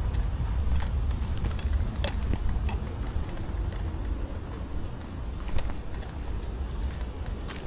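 Fishing rod and tackle being handled: scattered light clicks and clinks over a steady low rumble.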